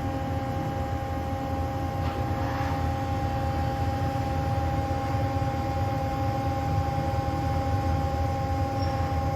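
Haas SL-15 CNC lathe running with a steady hum and a few constant whining tones while the X axis creeps at its slowest jog increment toward the tool probe.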